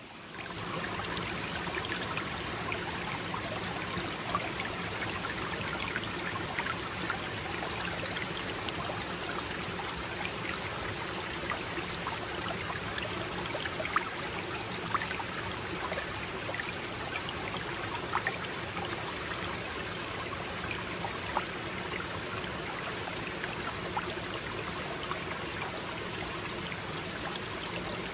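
A forest brook flowing steadily: an even rush of running water, with small splashes and drips scattered through it.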